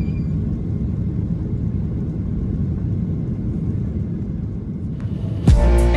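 Steady low rumble of a Boeing 737-800's CFM56 engines and airflow heard inside the rear cabin during departure. Music comes in abruptly near the end.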